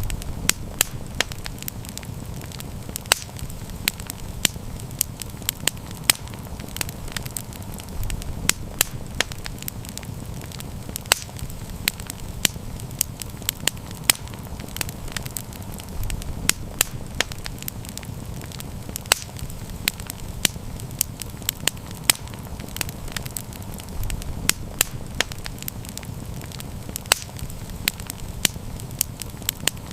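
Wood campfire burning, with frequent sharp crackles and pops over a steady low rush of the flames.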